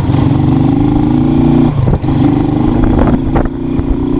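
Small motorcycle engine running at steady revs, with a brief drop in the engine note about two seconds in before it picks up again.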